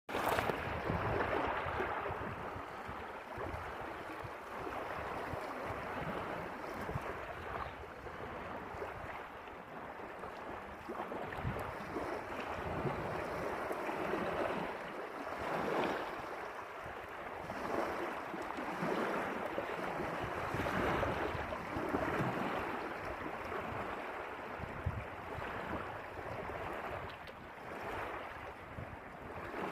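A steady wash of water noise that swells and eases every few seconds, with wind gusts buffeting the microphone.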